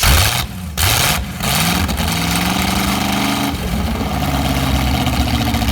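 A roughly 60-year-old GM Corvette V8 running loud. It revs up sharply twice at the start with rising pitch, then holds a steady fast idle that steps down in speed about three and a half seconds in.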